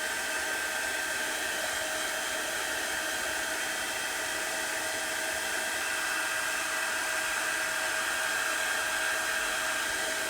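Handheld hot-air dryer blowing steadily, a constant rushing air noise with a motor whine: drying freshly applied chalk paste.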